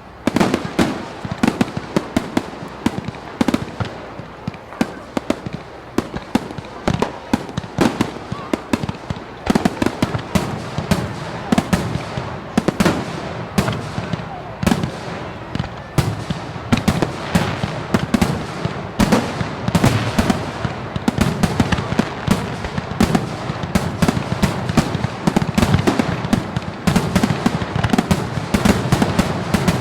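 Fireworks display: a dense, continuous barrage of bangs and crackling bursts, several a second, over a rolling rumble.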